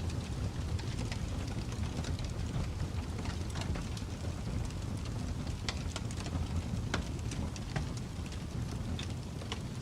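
Wood fire burning in a fireplace: a steady low rumble of flames with irregular crackles and pops scattered throughout.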